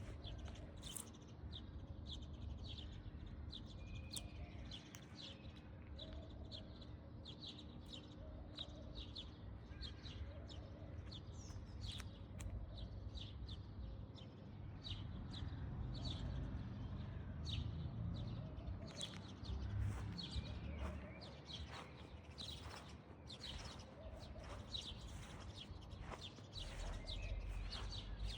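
Small birds chirping, many short high chirps in quick succession throughout, over a steady low background rumble.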